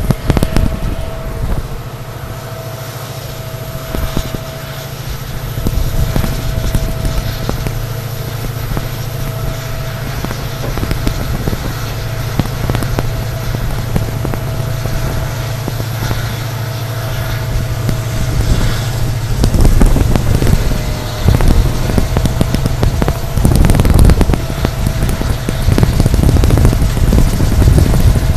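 Humming EMD diesel engine of a WDP4 locomotive hauling a passenger train, a steady low drone with a thin steady whine above it. From about twenty seconds in, the rougher running noise of the train rises and grows louder.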